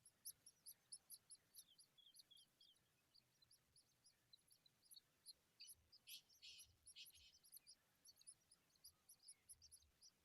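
Faint, rapid high-pitched chirping of skylarks, several short chirps a second, with two brief louder scratchy bursts a little past the middle.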